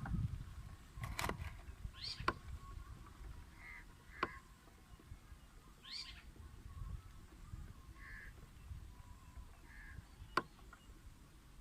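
Myna calling at its nest box: a few calls that sweep down in pitch and a string of short calls spaced a second or two apart. Several sharp clicks cut in, the loudest about ten seconds in.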